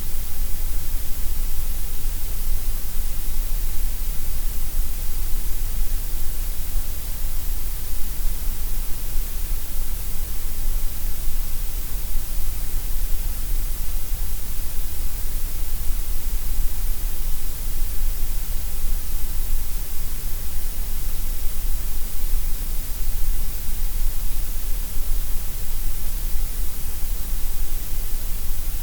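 Gray noise: a steady, unchanging hiss, fullest in the deep bass and the highest treble and thinner through the middle.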